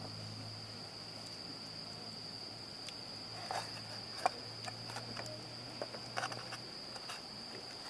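Crickets trilling, a steady unbroken high-pitched tone, with scattered small clicks and knocks over it.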